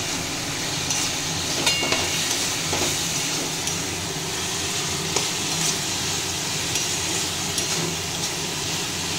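Vegetables and soya chunks sizzling in a metal wok (kadai) over a gas flame while a spatula stirs and scrapes through them, with scattered light clicks of the spatula against the pan.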